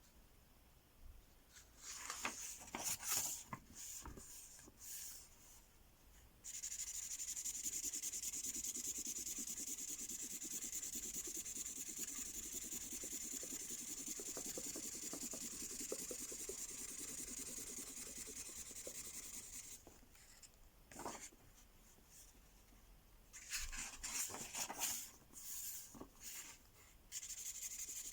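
A mystery-ink marker pen colouring on paper: short scratchy strokes at first, then about thirteen seconds of continuous back-and-forth scribbling, then short strokes again near the end.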